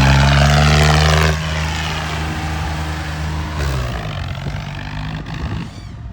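A vehicle engine running loud at a steady pitch. It drops off sharply about a second and a half in, then runs on more quietly and fades near the end.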